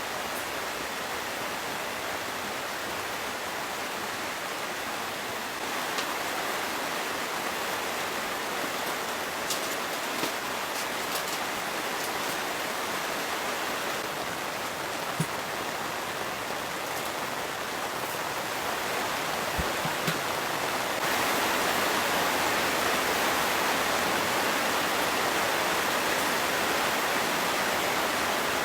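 Steady rushing noise of a wind and rain storm, with a few faint ticks, growing louder about three quarters of the way through.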